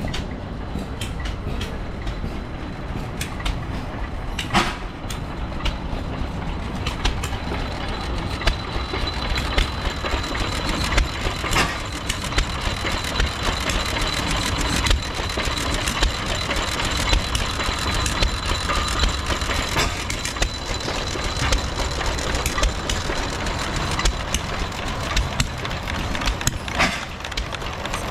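Engines running steadily, with many sharp irregular clicks and knocks; a thin high whine comes in about eight seconds in and fades around twenty seconds.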